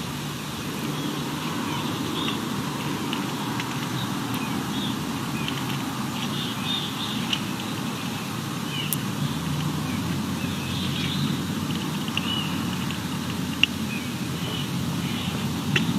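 Short high bird chirps scattered throughout over a steady low outdoor rumble, with a sharp click about three-quarters of the way through and another at the very end.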